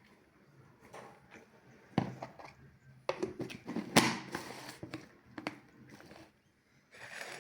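Close-miked eating of a grilled French taco: crunchy bites and wet chewing with sharp clicks, loudest about two seconds in and through the middle, then quieter chewing.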